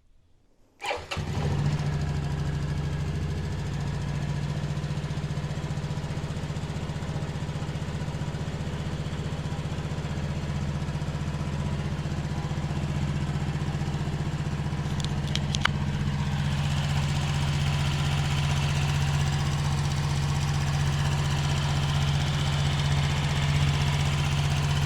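Daelim Citi Best CB115 motorcycle's small single-cylinder four-stroke engine starting about a second in and catching at once, then idling at a steady, even speed. A few light clicks sound about fifteen seconds in.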